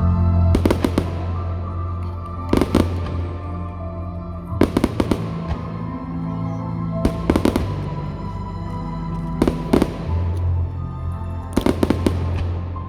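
Fireworks display: aerial shells bursting in quick clusters of several sharp bangs, a cluster about every two seconds, with music playing underneath throughout.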